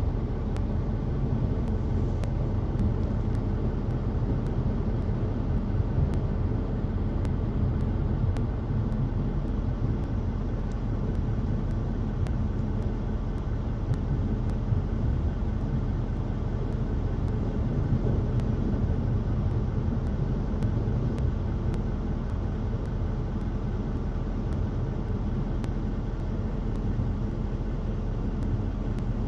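A steady, even low rumble of outdoor background noise that does not change.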